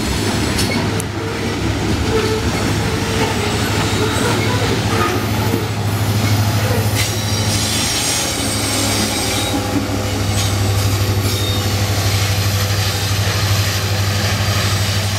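A loaded coal train rolling past close by: the steady rumble and clatter of steel wheels on rail from the hopper cars, over a constant low diesel locomotive engine drone as the rear BNSF SD70ACe unit passes.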